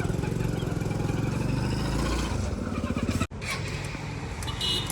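A vehicle engine running steadily, with a fast even pulsing low in pitch. It breaks off suddenly a little over three seconds in, and a quieter engine sound carries on.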